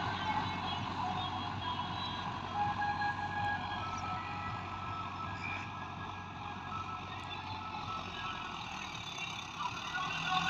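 Tractor engine running steadily at a constant pace, with short faint high tones over it.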